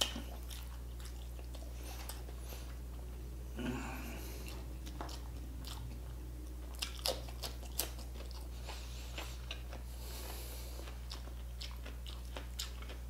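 Close-miked eating by hand: chewing and crunching of food, with scattered sharp mouth clicks and a few louder bites.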